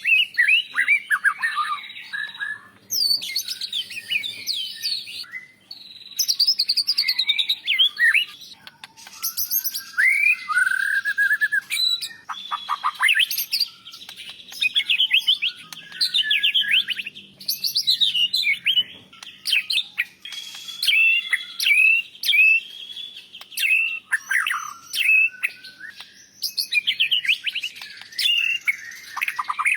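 White-rumped shama singing: loud, varied phrases of clear whistles and rapid chattering notes, each a second or two long, with short pauses between them.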